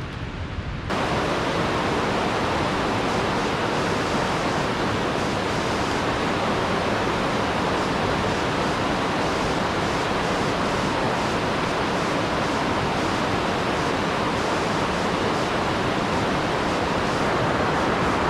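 Waterfall running, a steady rush of falling water. About a second in it turns louder and fuller, then holds steady.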